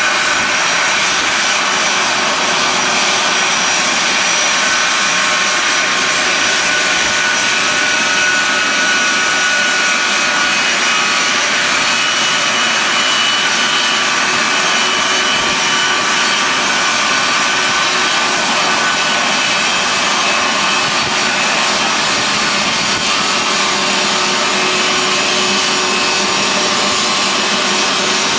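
Aircraft jet engines running steadily at close range: a continuous loud rushing noise with a high turbine whine held at an even pitch.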